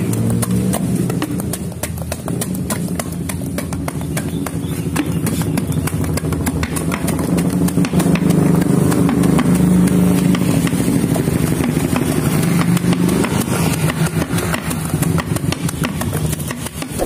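A motorcycle engine running steadily at low revs, with rapid light knocks or clicks over it.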